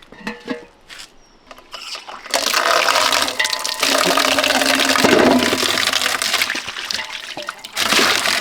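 Water rushing and splashing, as when it is poured or runs into a vessel. It starts about two seconds in after a few light clicks of handling, dips briefly near the end, then picks up again.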